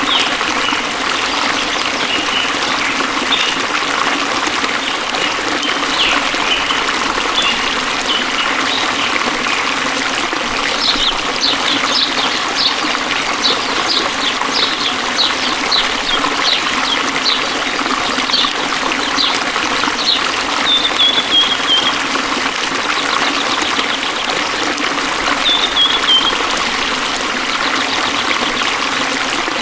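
Flowing forest stream trickling steadily, with birds chirping over it: a quick run of repeated notes in the middle and short falling phrases near the end.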